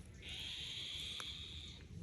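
A young bird of prey giving one long, harsh, hissing screech, typical of a chick begging for food, that lasts about a second and a half.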